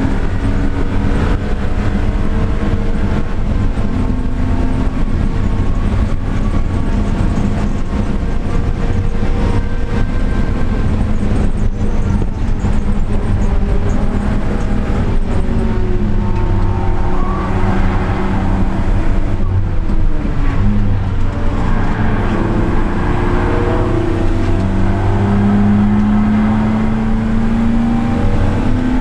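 Car engine being driven hard on a race track: the engine note climbs through the revs in long pulls and drops back at gear changes, with a deeper dip about two-thirds of the way through before it climbs again.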